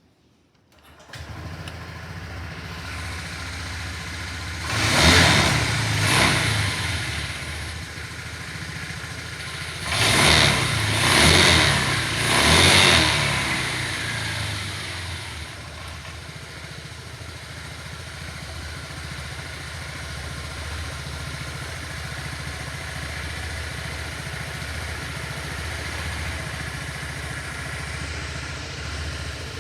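Honda PCX125 scooter's single-cylinder engine starting about a second in and idling, revved twice in quick succession and then three more times a few seconds later, each time dropping back to a steady idle.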